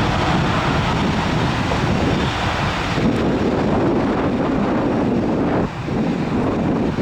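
Jet airliner engines running with a loud, steady noise, mixed with wind buffeting the microphone.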